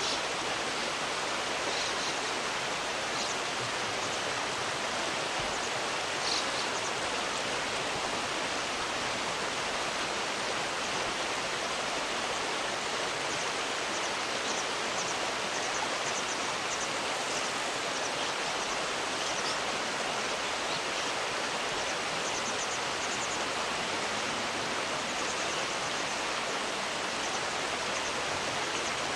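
River water rushing steadily, with faint, brief high chirps now and then.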